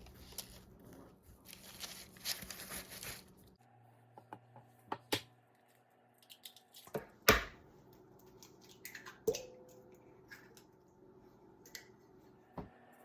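Food preparation with kitchen utensils and dishes: a few seconds of rustling and scraping, then scattered clicks and knocks, one of them with a brief ring.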